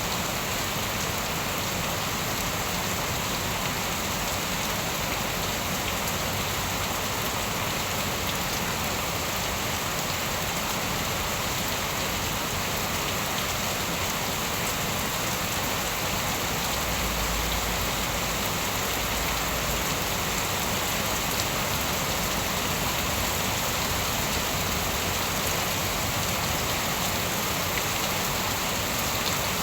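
Steady rain falling, an even hiss of drops that neither builds nor fades.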